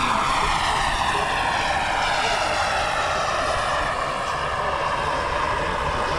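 Radio-controlled scale model helicopter in flight, its motor and rotors making a steady high whine that slowly falls in pitch over the first few seconds and then levels off.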